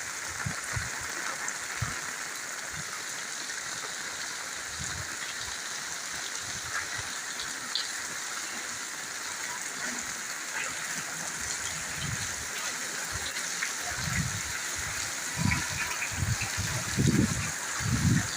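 Steady rain hissing down, with scattered low thumps that come more often and louder near the end.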